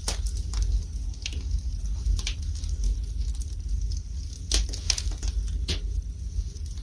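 Wood fire burning in a fireplace: irregular sharp crackles and pops over a steady low rumble, with a run of louder pops about four to six seconds in.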